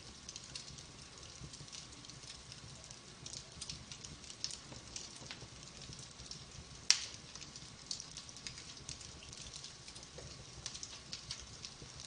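Wood fire burning in a fireplace, crackling with many small scattered pops over a soft hiss, and one loud sharp pop about seven seconds in.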